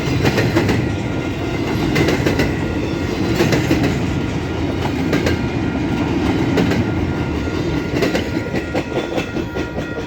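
Freight cars of a long freight train rolling past, wheels clacking irregularly over the rails.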